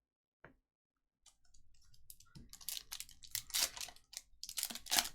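Trading-card pack wrappers and cards being handled, making irregular crinkling and crackling that starts about a second in and grows louder. A single click comes just before it.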